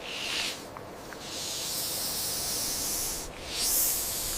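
Snake hissing: a short hiss, then a long one, then another near the end.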